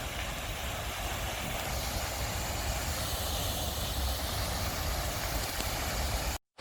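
Wind buffeting a smartphone's built-in microphones, an uneven low rumble under a steady hiss of fountain spray and city traffic. Near the end the sound cuts out abruptly for a moment as an external microphone is plugged into the phone.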